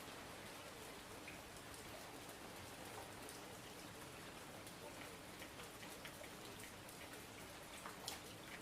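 Steady rain falling, with scattered individual drops tapping on a surface and one sharper tap near the end.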